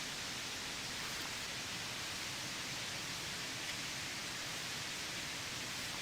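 Steady heavy rain falling, an even hiss with a few faint drop-like ticks.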